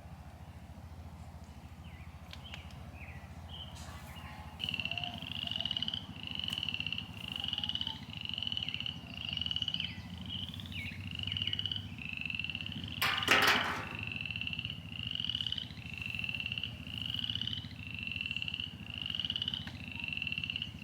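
An animal calling outdoors: a high, buzzy trilled note repeated about once a second, starting about four and a half seconds in, over a low steady rumble. A brief loud burst of noise cuts in just past the middle.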